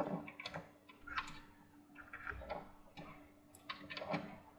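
Faint, irregular clicks and taps of cables and plastic connectors being handled and routed inside a small computer case, with a faint steady hum underneath.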